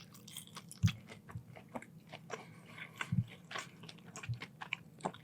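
Close-miked chewing of crispy chicken tenders: irregular crunches and wet mouth clicks, with a louder crunch about a second in.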